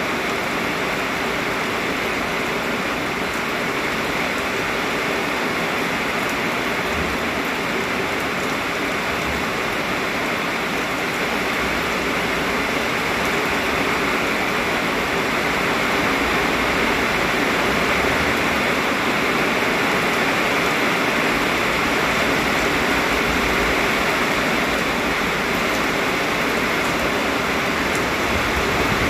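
Heavy rain falling steadily, a dense, even hiss with occasional low rumbles.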